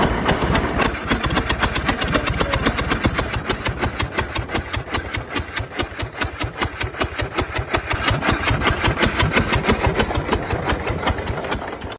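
Tractor engine running with an even, rapid exhaust beat, dipping a little quieter in the middle and picking back up about eight seconds in.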